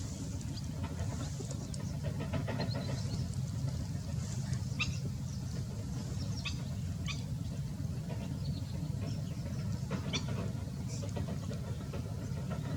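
Short, high chirps from baby birds at irregular intervals, over a steady low rumble.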